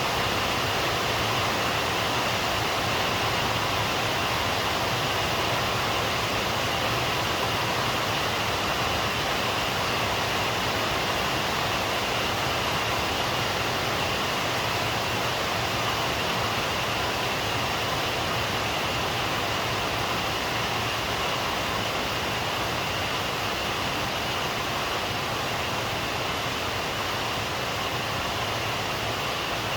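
Steady rain falling: an even, unbroken hiss with no thunder or single drops standing out.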